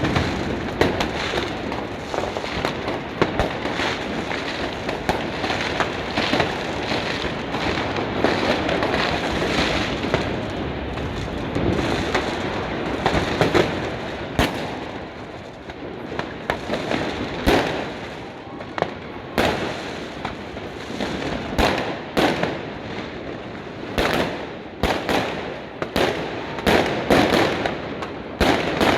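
New Year's fireworks and firecrackers going off all around: a dense continuous crackle with many sharp bangs, the bangs standing out more loudly and separately in the second half.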